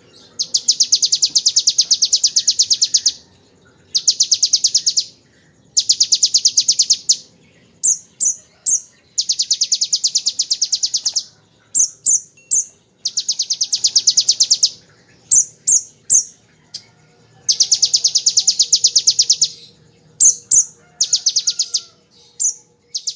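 Kolibri ninja sunbird singing seven long, very rapid machine-gun trills, its imitation of the bar-winged prinia's 'ngebren' song. The trills are separated by short, high chips.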